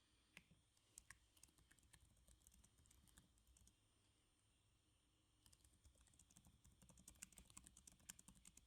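Faint typing on a computer keyboard: a run of keystrokes, a pause of about two seconds, then a second, denser run of keystrokes.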